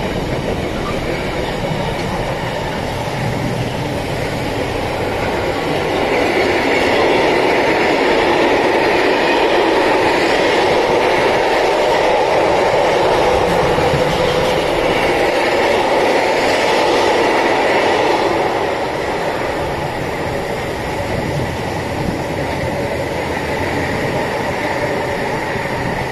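Container wagons of a long intermodal freight train rolling past close by, a steady clatter of wheels on rail. It grows louder about six seconds in and eases a little after about eighteen seconds, as the last wagons draw away.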